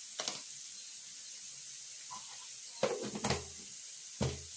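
Half-boiled thammakaya beans sizzling steadily as they fry in oil in a kadai, with a few short knocks against the pan, most of them in the second half.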